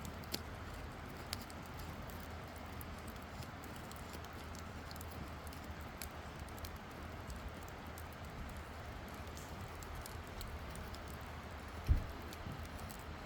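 Campfire crackling: scattered sharp pops and ticks over a steady low rumble, with one dull thump near the end.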